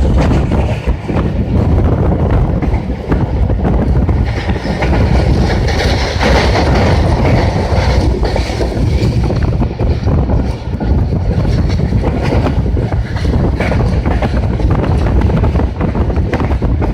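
A passenger train's coaches rolling past at speed: a steady loud rumble with the clickety-clack of wheels over rail joints, and a brighter hiss and screech of wheels on rail for a few seconds in the middle.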